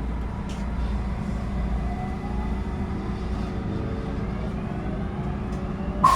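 Electric train running: a steady low rumble with a faint whine that rises in pitch partway through.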